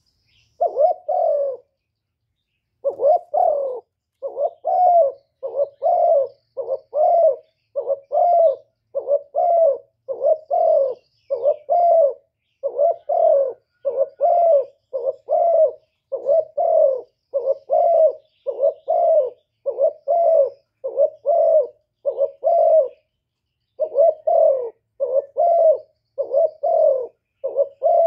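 Spotted dove cooing in a fast, steady run of short coos, about one and a half a second, pausing briefly near the start and again near the end. It is the excited 'gù' coo of a decoy dove, the call keepers use to provoke and draw in wild doves.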